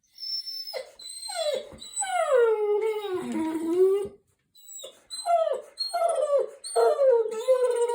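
Dog howling and whining: a long cry that slides down in pitch, then a run of short yowls, each dropping in pitch, with brief pauses between them.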